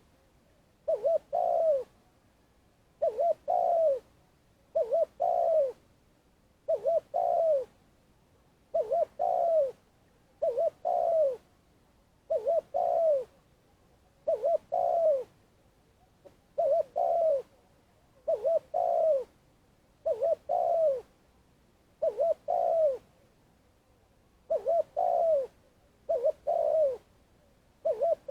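Spotted dove cooing its long calling song: the same phrase of two short coos and a longer falling coo, repeated about once every two seconds.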